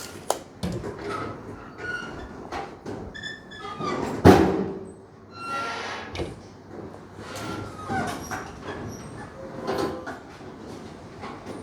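Irregular knocks and clanks of hands-on work on a truck, with one loud bang about four seconds in and a few short squeaks.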